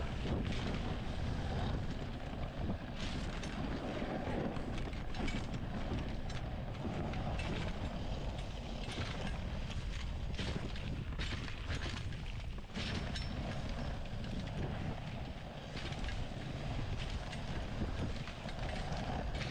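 Dog sled running over a snowy trail: a steady rumble and hiss from the runners on the snow, broken by frequent short scrapes and knocks.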